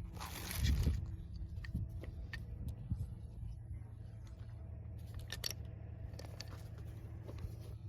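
Small ignition parts being handled: a rustle in the first second, then scattered light clicks and taps over a low steady hum.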